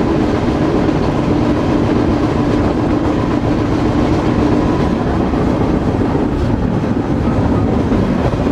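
A moving freight train: a loud, steady rumble and rattle of steel wheels on the rails, with a faint steady whine that fades out about five seconds in.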